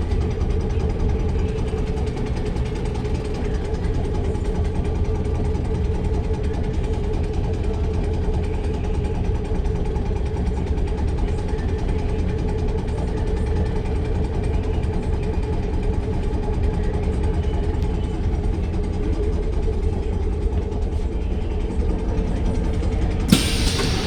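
Electric tram running with a steady hum and low rumble, with no rise or fall in pitch. A sudden louder burst of noise starts near the end.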